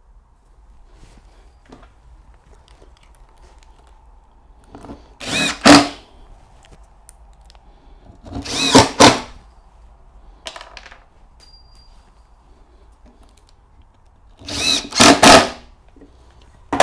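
Power drill-driver driving screws through a pre-drilled support block into a stair string: three short runs a few seconds apart, each in two quick pulses.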